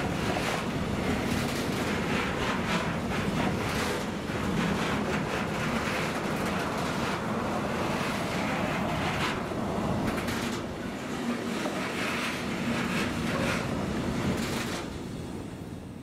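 A container freight train's wagons passing at speed: a steady rumble of steel wheels on the rails with irregular sharp clacks. The noise fades away near the end as the last wagon clears.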